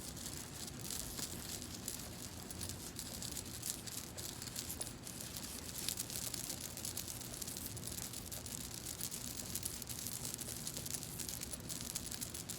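Hands massaging oil into hair in ASMR style: a steady, dense crackling and rustling of fingers working and scratching.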